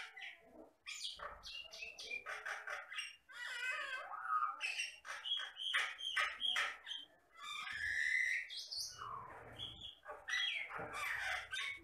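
Jalak Batam myna singing a long, varied run of whistles, sharp clicks, chatters and harsh squawks with short pauses between phrases.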